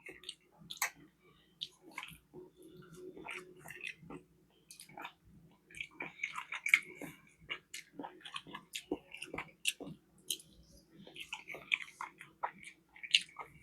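A person chewing food close to the microphone: irregular wet smacks and small clicks of the mouth, over a faint steady hum.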